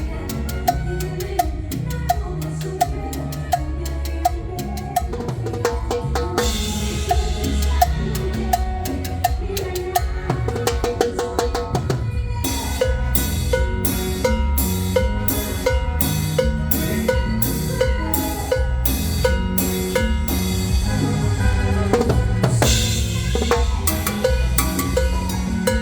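Live cumbia band playing an instrumental passage at a sound check, led by drum kit and percussion keeping a steady beat, with cymbal crashes washing over it twice.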